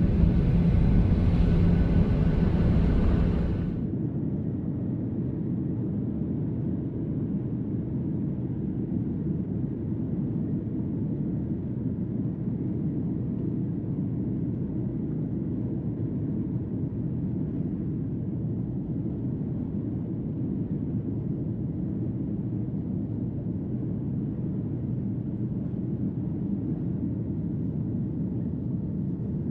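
Boeing 737 jet engines running at takeoff power. A loud rush and rumble with a steady low tone drops away suddenly about three and a half seconds in, leaving a steady, quieter drone.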